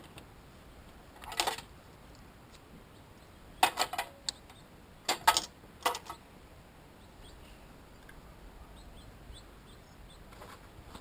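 Small metal parts clinking and clattering in several short bursts, as when hardware is handled or rummaged through; faint bird chirps in the background.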